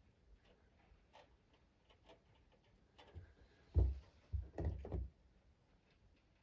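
Light taps and clicks, then a heavy thump just before four seconds in and a quick run of knocks right after.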